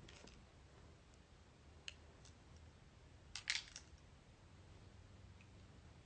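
Near silence broken by a few faint clicks: a single one about two seconds in and a short cluster of them a little past halfway.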